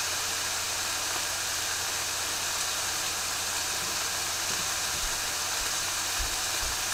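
Chicken pieces frying in a pan on a gas burner: a steady sizzling hiss over a low hum.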